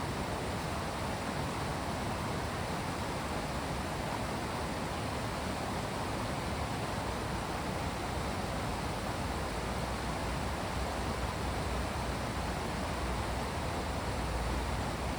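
Steady, even rush of water, unbroken and without distinct drops or splashes.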